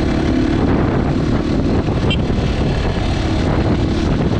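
Crossfire HJ 250 motorcycle running at a steady cruising speed, its engine note holding steady under heavy wind noise on the microphone.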